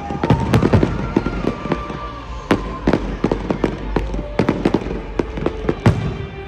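Aerial fireworks exploding in a rapid, irregular string of bangs, densest in the first couple of seconds, then thinning out and stopping near the end.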